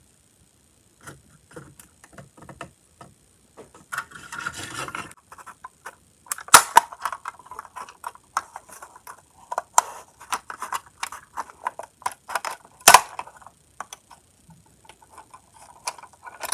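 Small clicks, rubbing and rustling as the plastic body shell of an HO scale boxcar kit is lowered and pressed onto its underframe, with two sharp snaps, one about six and a half seconds in and a louder one near thirteen seconds in.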